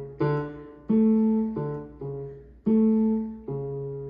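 Yamaha keyboard in a piano voice playing a slow left-hand bass pattern, single notes one after another on D, A, D, C sharp, A, C sharp, with the A notes held a little longer. Five notes sound, each ringing and fading before the next.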